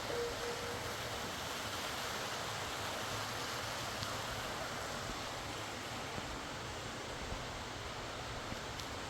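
Rushing river water, a steady even roar of fast-flowing current.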